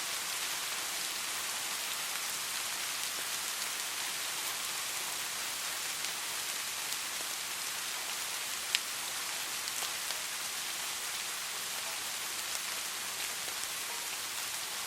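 Steady rain falling, an even hiss with scattered individual drops ticking through it; one sharper drop stands out about two thirds of the way in.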